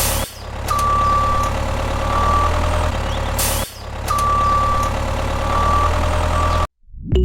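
Heavy vehicle engine sound with a steady low rumble and a high beep, the same pattern repeating about every three and a half seconds like a looped sound effect. It cuts off suddenly near the end.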